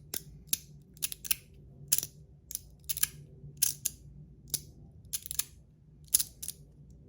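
Magnetic fidget slider being slid back and forth, its metal plates snapping into position with sharp clicks about twice a second, often in quick pairs.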